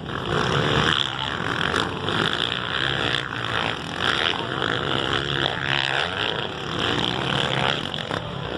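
450cc motocross bikes racing on the track, their single-cylinder four-stroke engines revving up and down as they accelerate and shift.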